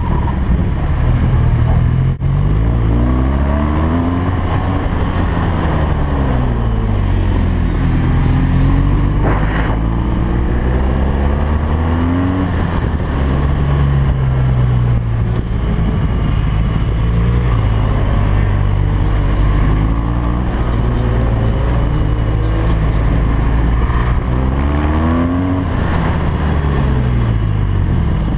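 BMW R1200GS LC's boxer twin engine running hard under race use, its pitch climbing and dropping again and again as it accelerates, shifts and slows for corners.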